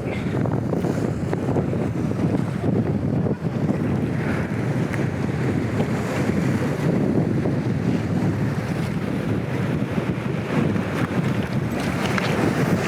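Strong gusting wind buffeting the microphone in a steady, heavy rumble, with breaking sea waves beneath it.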